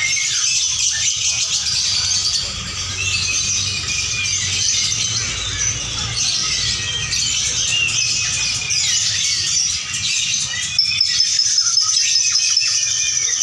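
Lovebirds chattering continuously, a dense tangle of rapid, high-pitched chirps and trills from several birds at once.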